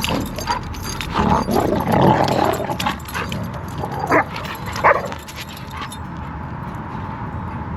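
A giant schnauzer and a young puppy in rough play, with dog vocalizations and yips. There are two short, sharp cries a little after four seconds, then it quiets down.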